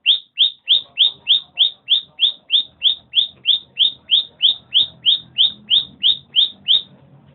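Bicudo (great-billed seed-finch) calling: a long series of identical short, upward-sweeping chirps, about three a second, that stops just before the end.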